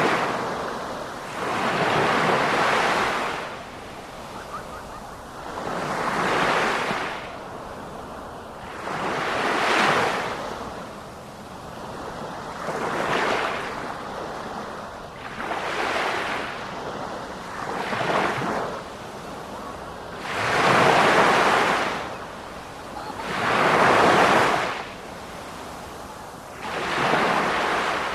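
Sea waves washing in, about ten surges of hiss that swell and fade roughly every three seconds.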